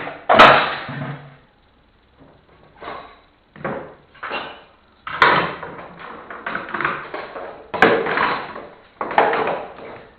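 Wooden beams being handled and knocked about, a series of irregular knocks and clattering bangs, each with a short ring-out.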